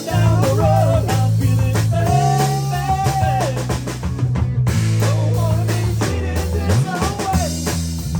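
A band playing a blues-rock jam on drum kit, bass and guitar, with a lead line bending and wavering between held notes.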